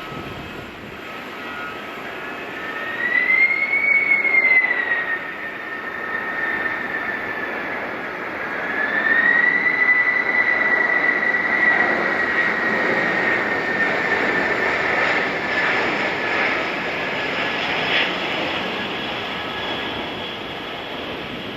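Boeing 747-400 freighter's jet engines running as it flies past during a low-altitude go-around. A high engine whine rises and falls about four seconds in, then rises again and holds, over a steady jet roar.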